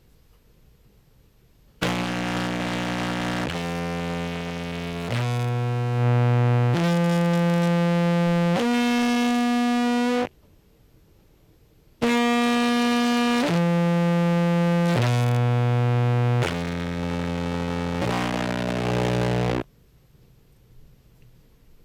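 Contrabass clarinet through fuzz and compressor pedals, playing five held notes that climb in pitch, then after a short pause five held notes that step back down. The tone is buzzy and thick with overtones.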